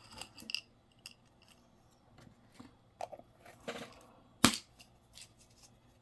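Small objects being handled on a desk: scattered light clicks and rustles, with one sharp click about four and a half seconds in.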